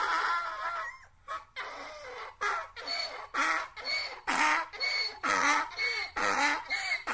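Donkey braying: the tail of a long drawn-out note, then a run of rapid, rhythmic hee-haw strokes.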